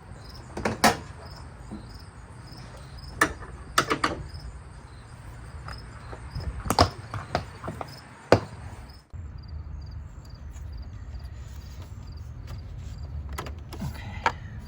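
Several sharp clicks and knocks of hands handling plastic parts under a car's hood, over a steady low hum. Insects chirp at an even, quick rate behind them.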